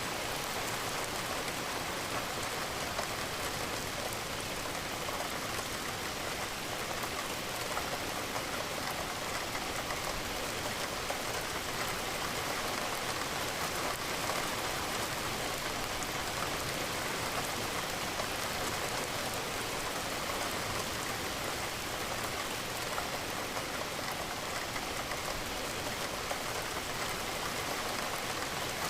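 Steady rain falling against a window, an even, unchanging hiss of raindrops.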